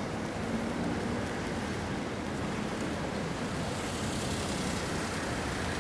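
Steady hiss of rain and city street noise, with a faint low hum underneath.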